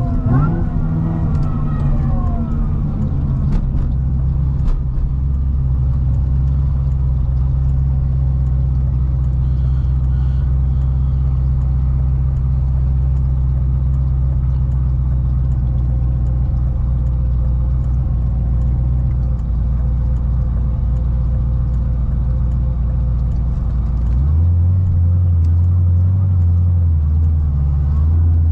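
C6 Corvette ZR1's supercharged V8 under way on the road. Its note falls away over the first couple of seconds as the revs drop, then it settles into a steady low drone. About 24 seconds in, the drone shifts to a higher note and gets slightly louder.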